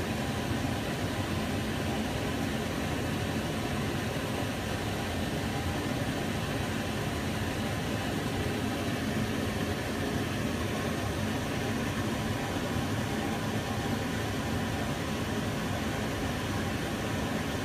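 Kitchen range hood extractor fan running steadily: an even, unchanging rush of air, heaviest in the low end.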